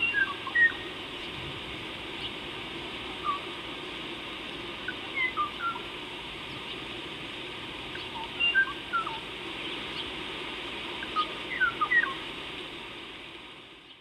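Birds calling: scattered short chirps and whistled notes, some sliding up or down, in small clusters over a steady background hiss that fades out near the end.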